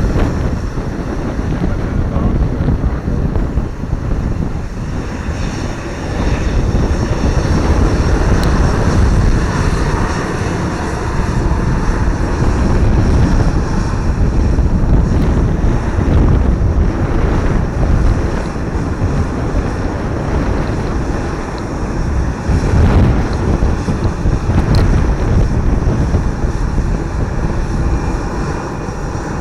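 An airplane's engines rumbling steadily, mixed with wind buffeting the microphone.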